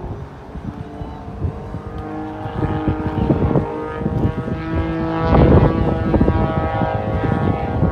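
An aircraft engine passing and growing louder, loudest about five and a half seconds in, with wind buffeting the microphone.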